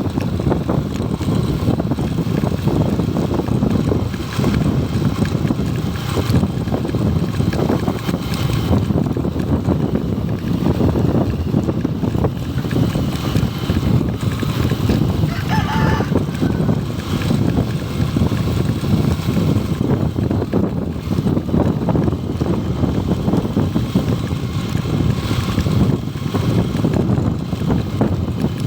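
Steady wind rush on the microphone over a motorcycle engine running while riding. A rooster crows once, briefly, about halfway through.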